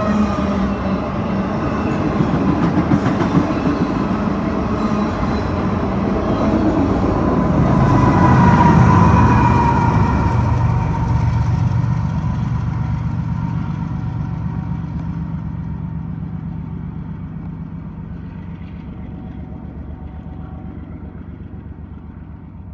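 A freight train's auto-rack cars roll past with steady wheel and rail noise. Then the rear distributed-power locomotive, a GE ES44AC, passes about nine seconds in, loudest there with its pitch dropping as it goes by. Its diesel engine sound fades steadily as it moves away.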